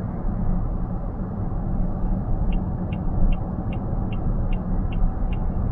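Steady in-cabin road and engine noise of a car at highway speed. About halfway through, a turn-signal indicator starts ticking evenly, about two and a half ticks a second.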